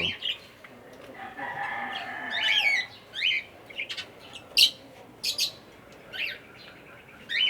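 Caged aviary birds, African lovebirds and cockatiels, calling: a string of short, sharp high chirps, with one longer drawn-out call between about one and three seconds in.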